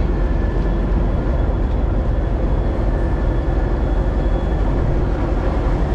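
2TE10U diesel locomotive's engine running at a standstill, a steady loud rumble with a faint steady hum over it.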